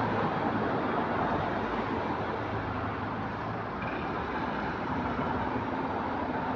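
Double-decker bus running, its engine drone and road noise heard from inside the passenger cabin, with a brief faint high-pitched tone about four seconds in.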